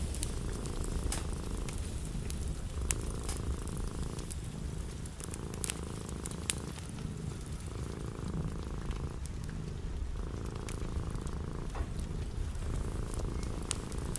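A cat purring steadily in a cycle of about two seconds, with the sharp, irregular pops and crackles of a wood fire scattered over it.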